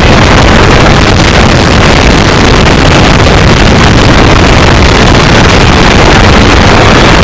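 A car's engine running hard at track speed, mixed with wind and road noise, heard from inside the cabin. The sound is steady and so loud that the recording is overloaded and distorted.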